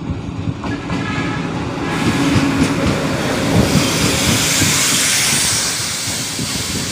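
A diesel locomotive drawing a passenger train past at close range, its engine hum giving way to the coaches rolling by, with wheels clicking over the rail joints. A rushing noise builds through the middle as the coaches pass, then eases a little near the end.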